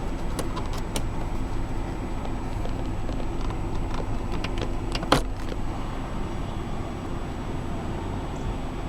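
The 1999 GMC Yukon's 5.7-litre V8 idling steadily, heard from inside the cabin, with a few sharp clicks, the loudest about five seconds in.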